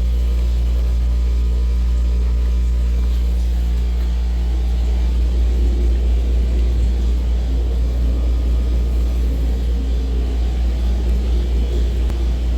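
A machine running with a steady, low hum.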